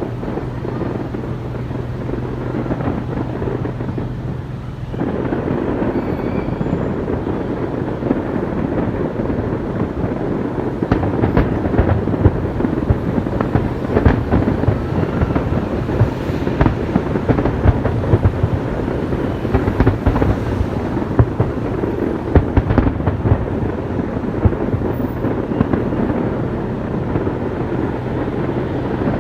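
Fireworks display: a continuous rumble of bursts that grows louder about five seconds in, then many sharp bangs in quick succession from about eleven seconds on. A steady low hum runs underneath.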